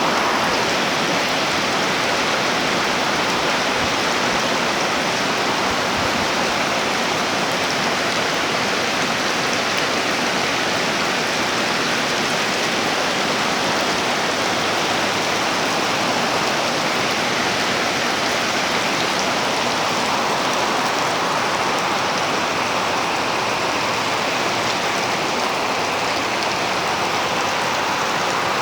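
Loud, steady rain falling and pattering on surfaces.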